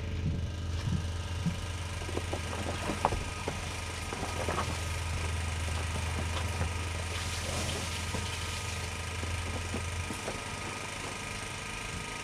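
Portable generator engine running steadily with a low hum, eased off about ten seconds in, with scattered clicks and knocks from something being handled and opened up.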